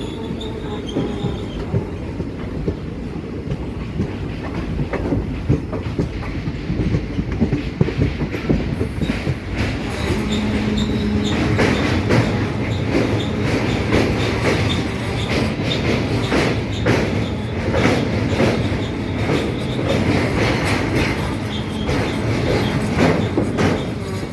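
Passenger train running, heard from on board: a steady rumble of the coach, with the wheels clattering over the rail joints, the clatter getting louder and busier about ten seconds in.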